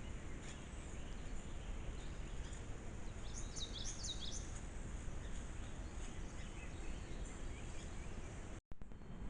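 Outdoor ambience through a trail camera's microphone: a steady low rumble and hiss, with a quick run of high bird chirps about three to four seconds in.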